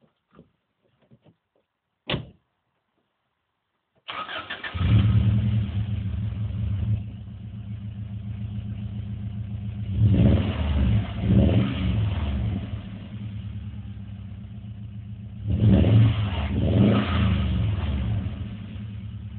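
A car door thumps shut. About four seconds in, a Ford Fiesta's engine cranks briefly and catches. It runs fast at first and settles to an idle, then is revved twice in short blips, about ten seconds in and again near the end.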